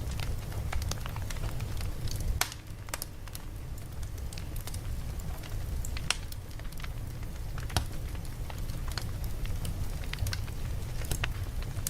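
Campfire crackling: scattered sharp pops and snaps of burning wood over a low steady rumble.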